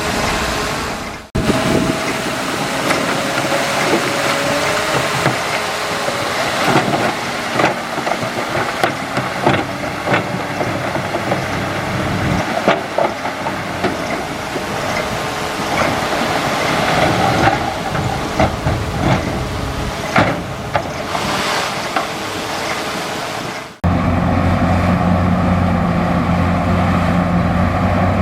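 Bulldozer at work: its diesel engine running under many sharp metallic clanks and squeaks. After a sudden cut near the end, a steadier engine drone.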